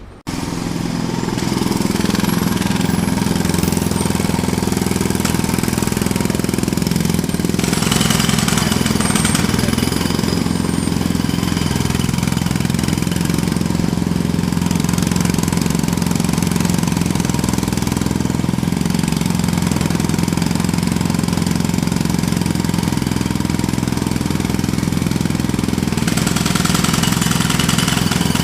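Jackhammer that starts up suddenly just after the start and then hammers steadily, over a low, steady, engine-like drone.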